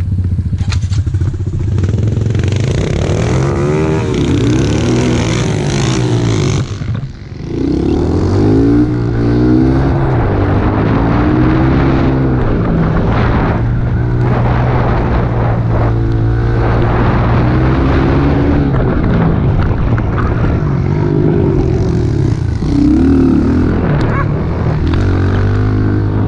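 Small four-stroke single-cylinder pit bike engine being ridden, its pitch rising and falling over and over as the throttle is worked, with a brief drop in level about seven seconds in.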